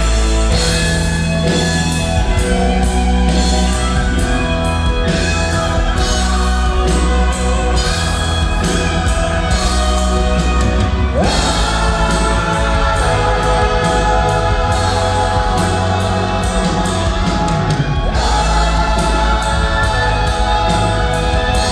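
Live band playing a song with singing and drums, with a heavy low end.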